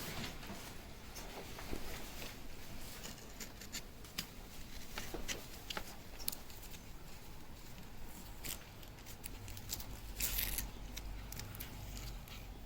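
Masking tape being trimmed with a razor blade and handled on a motorcycle helmet shell: scattered small scrapes and clicks, with a longer rasp about ten seconds in.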